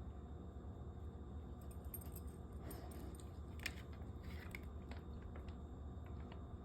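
Puppy biting at an ice cube floating in her water bowl: a scattered run of faint clicks and small wet noises, with one sharper click about three and a half seconds in.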